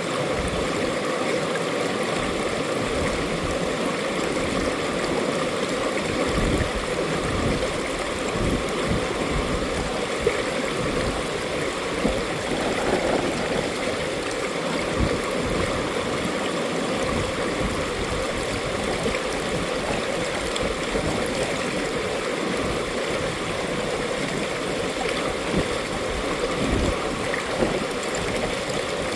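Mountain valley stream flowing, a steady continuous rush of water with small irregular gurgles.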